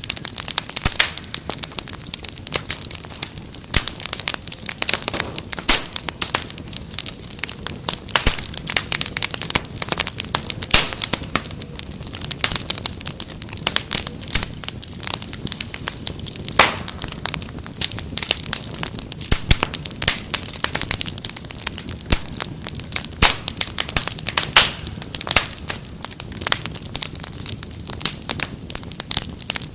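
Wood fire crackling, with many sharp pops of varying loudness over a low steady hiss.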